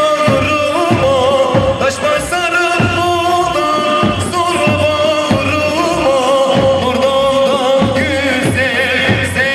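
Kurdish folk music for halay dancing: singing with a wavering melody over bağlama and a steady drum beat of about two strokes a second.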